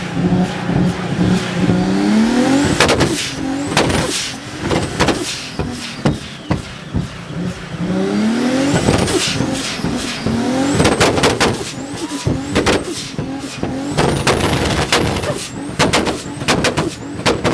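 Car engines revving up again and again, with rising pitch each time, mixed with many sharp cracks and pops.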